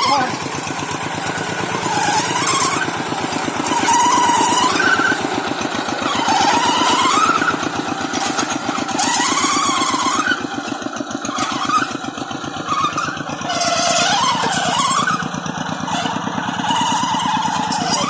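Farm tractor engine running with a rapid, even chugging, its loudness swelling and easing every couple of seconds as it works, with a wavering higher tone rising and falling over it.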